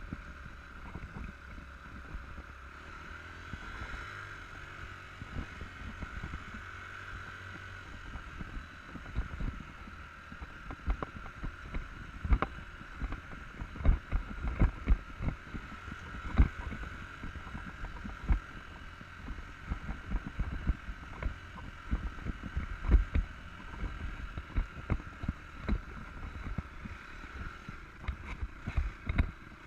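Enduro motorcycle riding over rough ground: a steady engine hum with frequent knocks and thumps from the bumps, which come thicker about a third of the way in.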